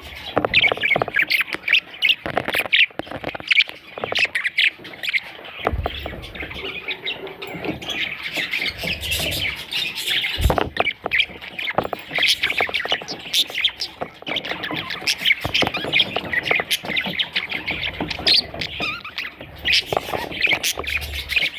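Budgerigar chicks chirping and squawking in a continuous, raspy chatter, with a few low bumps.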